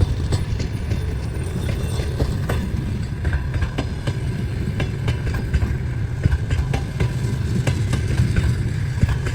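A train rolling past at close range: a steady low rumble with a quick, irregular clatter of wheels over the rail joints, heard in a sped-up recording.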